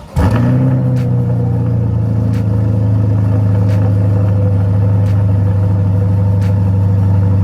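A C8 Chevrolet Corvette's V8 starting up through its exhaust, the revs flaring briefly and then dropping into a steady idle rumble.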